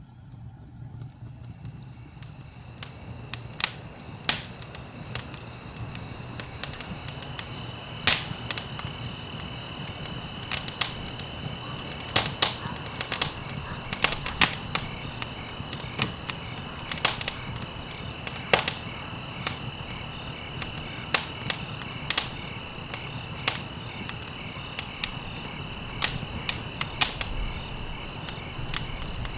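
Wood fire crackling, with irregular sharp pops and snaps over a low steady rumble. A steady high insect trill, like crickets, comes in about a second in and keeps on.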